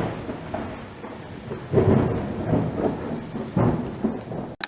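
Thunderstorm: rumbles of thunder swelling about every two seconds over a steady hiss of rain, cutting off abruptly near the end.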